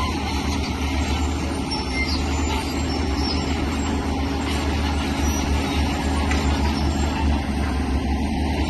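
Heavy diesel earthmoving machinery running steadily under load, a constant low engine rumble with mechanical noise over it.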